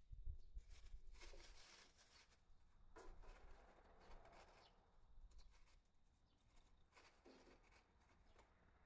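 Faint rustling and crinkling of masking tape and paper being handled, in a few soft spells of a second or so each, with a low bump near the start.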